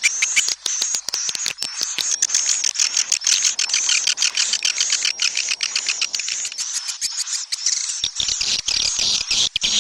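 Swiftlet lure-call recording (suara panggil): dense, continuous high twittering of edible-nest swiftlets with rapid rattling clicks woven through, the sound played to draw swiftlets into a swiftlet house.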